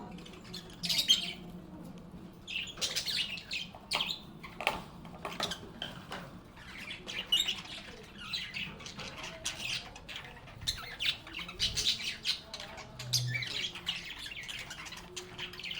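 Pet lovebirds chirping and squawking, many short high calls in quick, overlapping succession.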